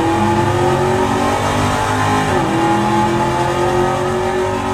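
Car engine accelerating hard through the gears: its pitch climbs steadily, drops suddenly at an upshift about two seconds in, then climbs again.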